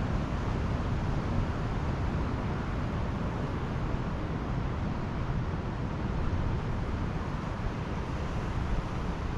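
Pacific Ocean surf breaking along a sandy beach, a steady rushing noise heaviest in the low end.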